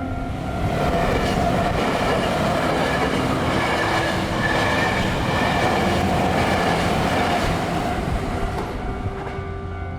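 Hankyu electric train passing over a level crossing, its wheels clattering on the rails in a dense rush that swells about a second in, holds, and fades near the end.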